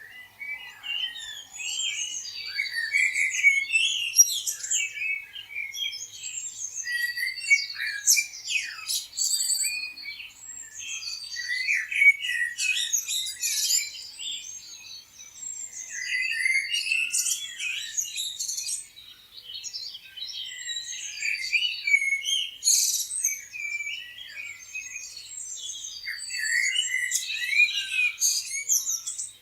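Many songbirds chirping and singing at once, a dense overlapping chorus of short, high chirps and trills.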